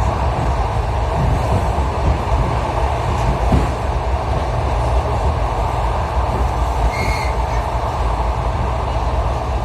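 Steady rumble of a moving suburban electric train heard from inside the carriage, wheels running on the rails, with a brief high squeal about seven seconds in.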